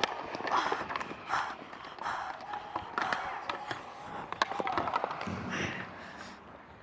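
Ice hockey play heard on a goalie's body microphone: skate blades scraping and carving the ice, with repeated sharp clacks of sticks and puck.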